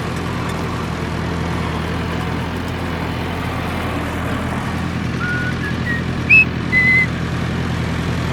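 A vehicle engine runs with a steady low drone. From about five to seven seconds in, a few short high whistle-like tones step up in pitch and then drop back.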